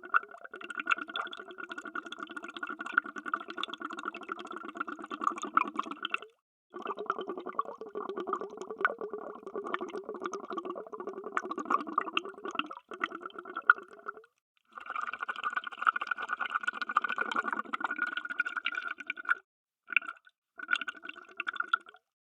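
Underwater bubbles sound effect: a dense stream of bubbling and gurgling, in stretches of several seconds broken by short silent gaps a few times.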